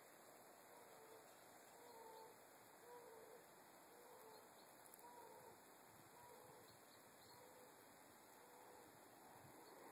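A faint bird call: a run of about a dozen short, low notes repeated roughly every half second to second, over steady background hiss.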